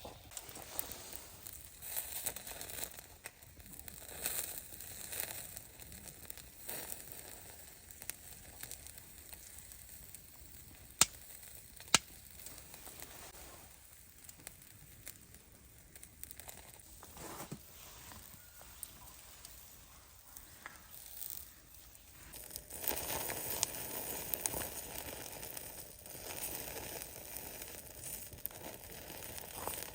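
Rustling and crinkling handling noises with two sharp clicks about a second apart, then food starts sizzling steadily on a charcoal shichirin grill about three-quarters of the way in.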